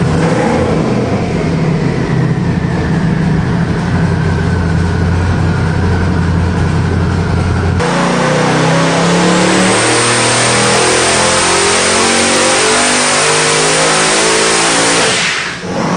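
Twin-turbocharged 388 cubic inch LS-based V8 running on an engine dyno: a steady note for about eight seconds, then a full-throttle pull with the pitch climbing steadily and a high whine rising with it, cut off sharply near the end.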